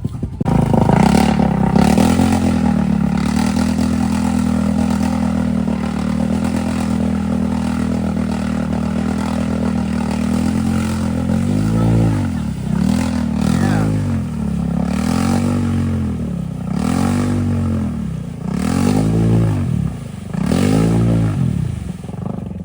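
ATV engine held at steady high revs for about eleven seconds while working through deep mud, then revved up and down over and over, about every second and a half, as the rider pumps the throttle to keep moving.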